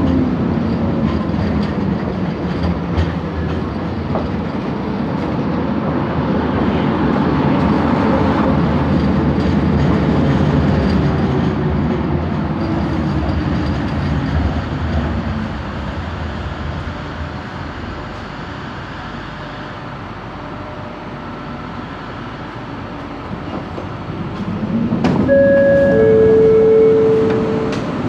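Inside a light-rail train running on the track: a motor whine falls in pitch at the start as the train slows, the running noise eases off in the middle, then a whine rises again a few seconds before the end, followed by two short steady tones.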